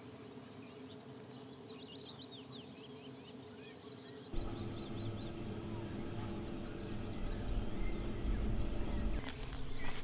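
Birds calling at night: many short, quick, downward-sliding chirps. After a cut about four seconds in, a louder low rumble takes over, with footsteps through grass.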